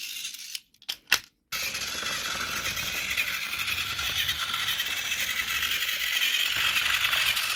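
Trackmaster Hiro toy train running on a test run: its small motor and gears whirr with a light mechanical rattle, now running smoothly after the bent side rods were straightened. The sound drops out briefly near the start, with a single click about a second in, then runs steadily again.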